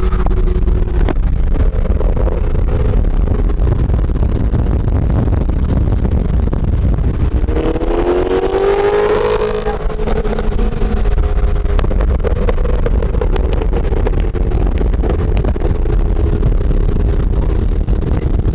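Car engines at speed, heard from inside a car's cabin over a heavy, steady road and wind rumble. Roughly eight seconds in, an engine revs up hard, its note climbing steeply for about two seconds. Sharp pops scatter through the later part as the turbocharged GTI's exhaust spits flames.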